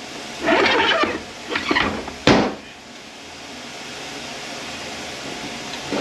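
Metal parts and tools being handled: scraping and rattling in the first two seconds, one sharp metallic clank a little past two seconds, then only a quiet steady hiss.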